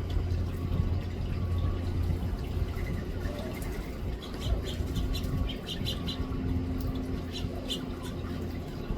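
House finches chirping: a quick run of short, high call notes, over a steady low rumble.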